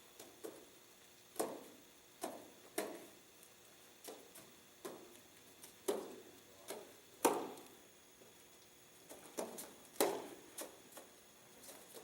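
A series of irregular sharp clicks and knocks, each with a short ringing tail, coming about once every half second to a second at uneven spacing.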